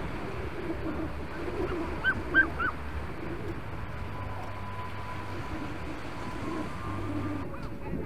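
A bird gives three short, quick calls about two seconds in, over a steady wash of surf and wind on the beach.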